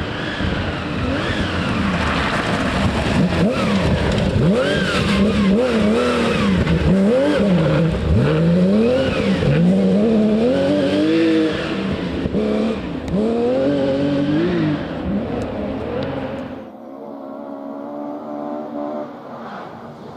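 Rally car engine revving hard, its pitch climbing and dropping again and again as the car is driven through a stage. Near the end the sound drops off suddenly to a fainter, steadier engine note.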